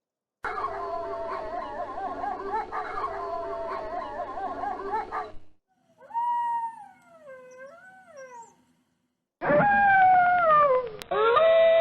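Wolves howling: for about five seconds a pack chorus of several overlapping, wavering howls, then single howls that glide up and down in pitch. The recordings start and stop abruptly, with dead silence between them.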